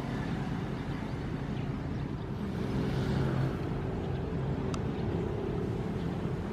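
Ocean surf: a steady low rumble of waves, with one wave swelling and washing in about halfway through.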